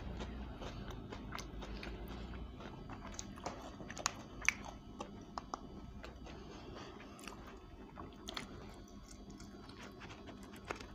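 Chewing and crunching of crispy spicy fried chicken, eaten by hand, with scattered crackles of the coated skin and a few sharper crunches about four seconds in.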